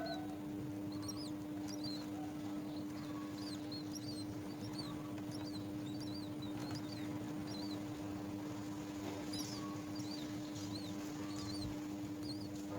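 Nestling birds calling with many short, high-pitched chirps in quick succession, over a steady low hum.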